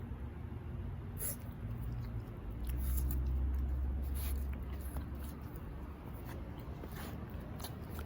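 French bulldog puppy making dog sounds while chewing and playing, with scattered small clicks. A low rumble comes in about three seconds in and lasts about two seconds.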